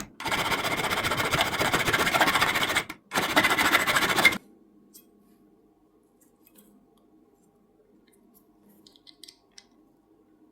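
Abrasive scraping on a diecast metal toy car's body, steady in two stretches with a brief break about three seconds in. It stops about four seconds in, leaving a faint low hum and a few small clicks.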